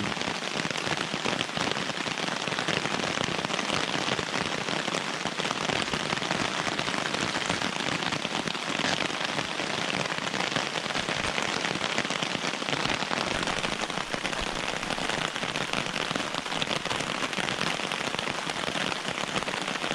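Steady heavy rain falling on a hammock tarp overhead, an even patter of many drops.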